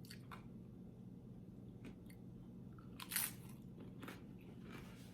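Close-miked eating: a loud crunchy bite into a tortilla chip about three seconds in, with fainter crunching and chewing around it.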